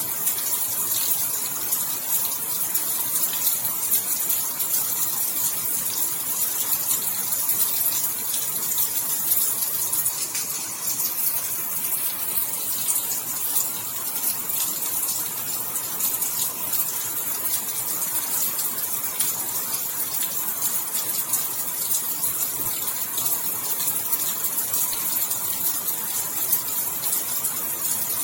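Steady rainfall: an even hiss of falling rain with many small drop impacts.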